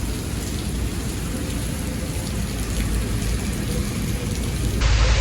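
Heavy rain pouring down in a steady hiss and patter. Near the end it cuts abruptly to a louder, duller low rumble.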